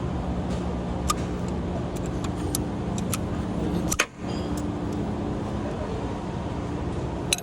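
Steady low mechanical hum in the workshop, with a few sharp clicks and clinks of tools and engine parts being handled; a loud click about four seconds in is followed by a short break in the sound.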